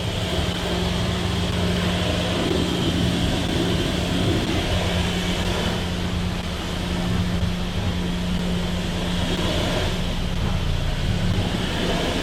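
High-pressure washer running steadily: a constant motor hum under the hiss of the water jet spraying.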